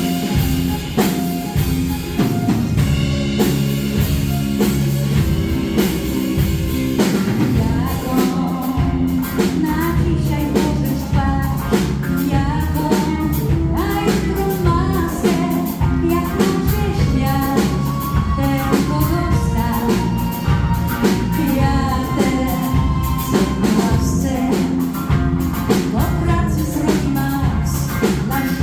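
Pop band playing live: drum kit keeping a steady beat under bass and keyboards, with a melody line that may be a lead vocal.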